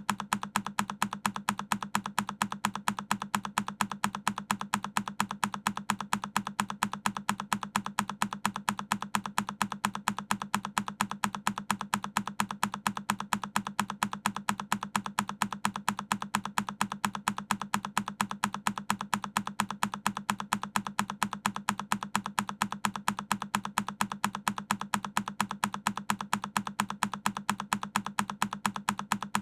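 A single key on a Keychron K10 mechanical keyboard pressed over and over, each press a sharp click repeated at an even, quick rhythm.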